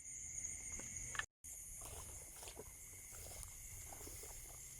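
Steady chorus of night insects in several shrill, unchanging tones, with faint scattered knocks and rustles of handling. The audio drops out completely for a moment about a second in.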